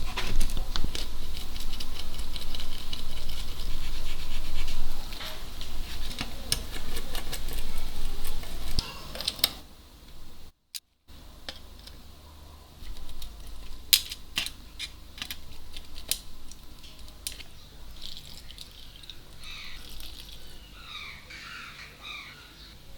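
Handwork on small camera parts: steady rubbing or scrubbing with many sharp clicks for about nine seconds, then, after a brief cut in the sound, scattered sharp clicks and light scraping.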